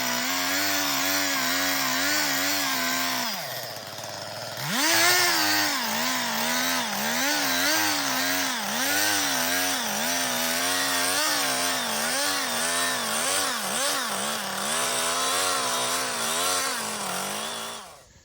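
Small two-stroke chainsaw running at high revs, its worn chain with broken teeth skimming dirt and bark off the surface of a log; the engine note wavers as the chain bites. A few seconds in it drops briefly to idle and revs back up, and near the end it winds down.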